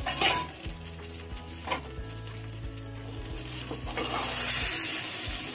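Stuffed okra and baby onions sizzling as they fry in mustard oil in a steel pan. There is a sharp knock just after the start and another just before two seconds in. The sizzle grows louder about four seconds in as the okra is stirred with a spatula.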